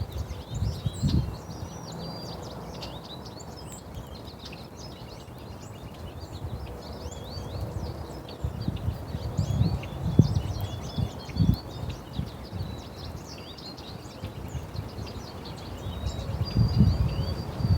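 Many small birds chirping and twittering in quick, overlapping calls, with one held high note near the end. Low rumbling thumps come and go underneath, strongest about ten seconds in and near the end.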